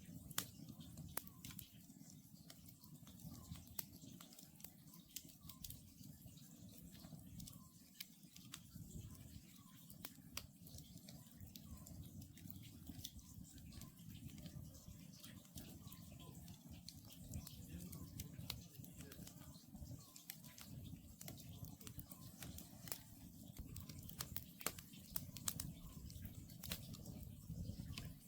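Wood campfire crackling and popping over a steady low rumble of burning logs. Faint, short repeated calls of an Oriental scops owl come from far off.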